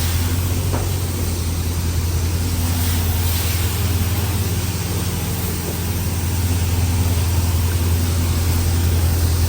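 Car engine running steadily at low revs, a deep even rumble with no revving.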